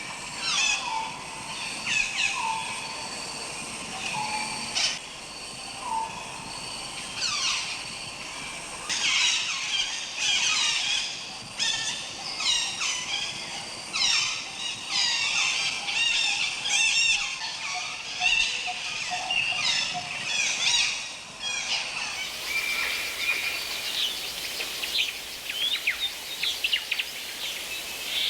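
Tropical forest birds calling. A loud whistle sweeping steeply down in pitch repeats about every two seconds, then many birds join in a dense chorus of chirps and trills. About twenty-two seconds in, the background hiss changes abruptly, with scattered chirps over it.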